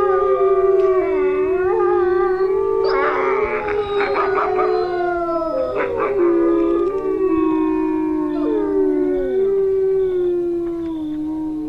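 A pack of wolves howling in chorus: several long, overlapping howls that slide up and down in pitch.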